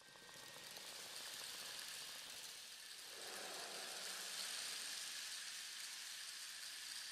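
Steady, fairly faint hiss of rain falling, fading in over about the first second.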